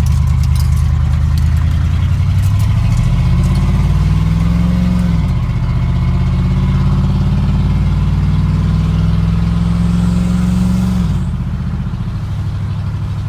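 Squarebody pickup truck's engine and header exhaust heard from inside the cab, accelerating hard: the revs climb for about five seconds, drop sharply at a gear change, climb again, then fall off about eleven seconds in as the throttle eases.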